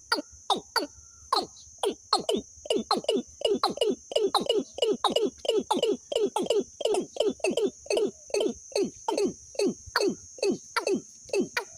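A bird calling in a fast, even series of short notes that each drop sharply in pitch, about three a second, over a steady high trill of crickets.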